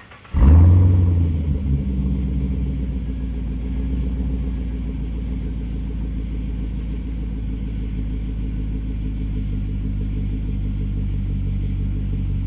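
2009 Pontiac G8 GT's 6.0-litre V8 starting through a Solo Performance axle-back exhaust: it catches about half a second in with a loud flare, then settles within a couple of seconds into a steady, deep idle rumble.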